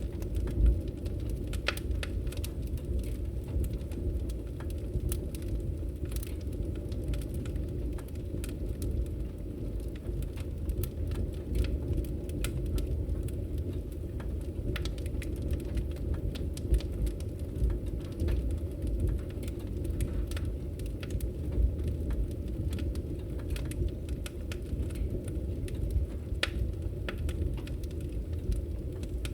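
Wood fire burning steadily: a low continuous roar of the flames with frequent sharp crackles and pops from the burning logs.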